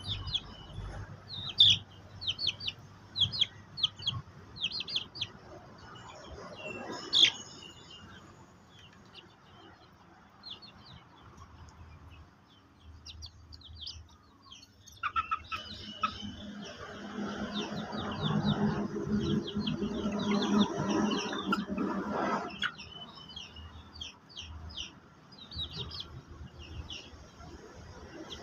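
Birds chirping: many short, high chirps in quick runs, with chickens about. Midway, a louder, lower noise lasts about seven seconds.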